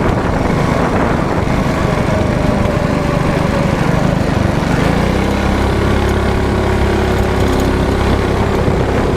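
Mini bike's small engine running while being ridden, rough and uneven at first, then settling into a steady drone about halfway through.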